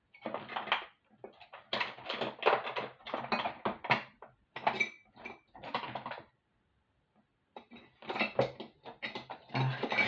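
Pliers and other small hand tools clinking and rattling against each other in a tool tray as it is rummaged through, in several bursts of quick clatter with a short pause about two-thirds of the way through.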